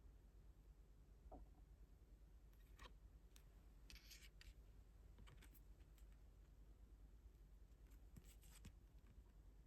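Near silence with faint scattered clicks and a brief paper rustle about four seconds in, from a K-pop album's photobook and inclusions being handled.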